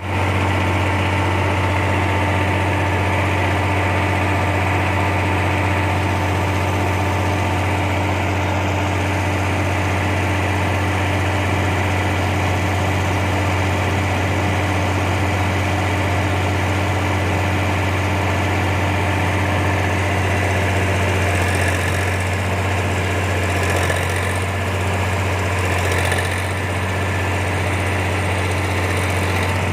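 Steady low mechanical hum, like a motor or engine running at idle, unchanging throughout; a few brief high-pitched sounds come in near the end.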